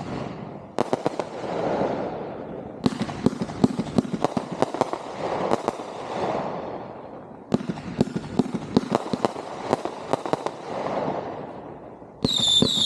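Consumer 1.4G fireworks going off: volleys of sharp bangs and dense crackling come in waves, with new volleys starting about a second in, three seconds in and seven and a half seconds in. Near the end a loud, shrill whistling starts.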